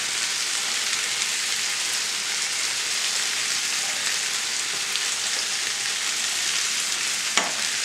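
Diced chicken and vegetables sizzling steadily in olive oil and butter in a cast iron skillet, with one brief click near the end.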